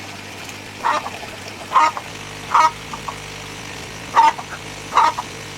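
Domestic waterfowl calling: five short, loud calls under a second apart.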